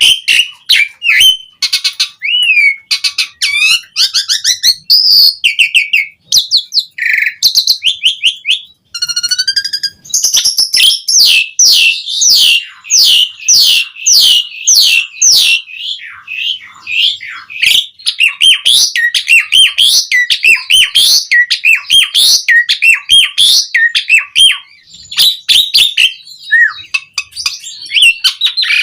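Asian pied starling (jalak suren) singing a long, varied song of whistles and rising and falling slurred notes. About a third of the way in it turns to a dense, fast chattering run.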